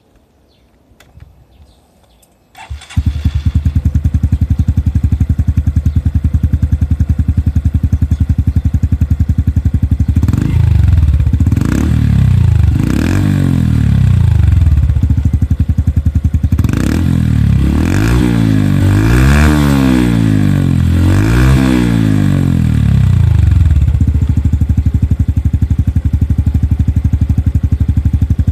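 Honda Cross Cub CC110's single-cylinder four-stroke engine through a Yoshimura stainless steel aftermarket muffler, starting up about three seconds in and idling. Partway through it is revved up and down several times in two bursts, then it settles back to idle.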